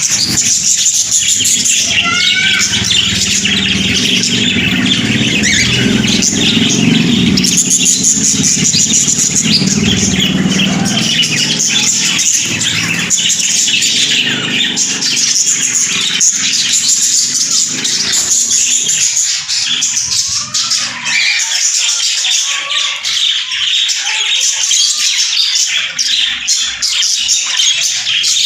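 A flock of caged pet birds, budgerigars and cockatiels, chirping and chattering continuously with many overlapping high calls. A low rumble sits under the birds and fades out about two-thirds of the way through.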